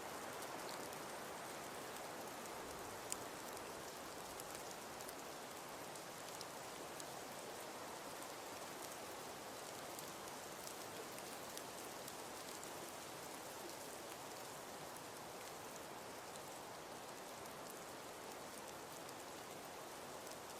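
Wood fire burning in a fireplace: a steady hiss with scattered small crackles and one louder pop about three seconds in.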